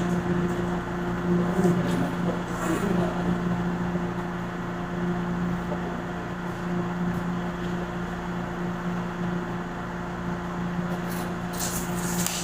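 Steady machine hum: a low drone with an even higher tone above it, unchanging throughout, with a few light clicks near the end.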